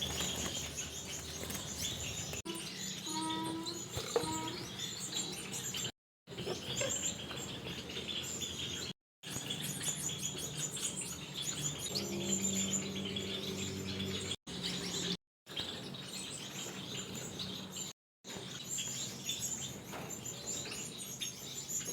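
Gouldian finches chirping and tweeting, a dense chatter of short high calls with a low steady hum underneath at times. The sound drops out completely several times for a moment.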